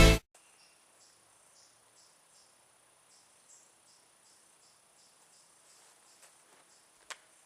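Intro music cuts off right at the start, leaving faint crickets chirping: short high chirps repeating about two or three times a second over a thin steady high tone. A single faint click comes near the end.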